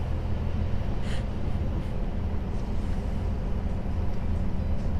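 Scania truck's diesel engine pulling hard under load up a steep grade, a steady low drone mixed with road noise.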